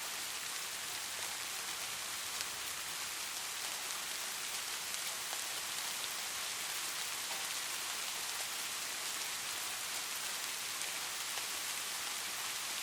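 Steady light rain: an even hiss with many fine drop ticks.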